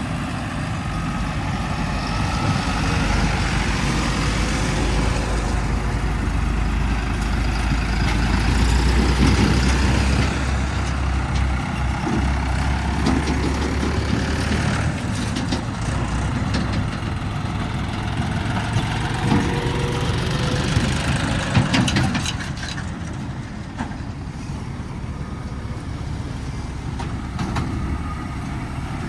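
Heavy diesel machinery engines running close by, with a deep rumble that is strongest in the first half. A few sharp clanks come around the middle and again a little past twenty seconds in, after which the running is somewhat quieter.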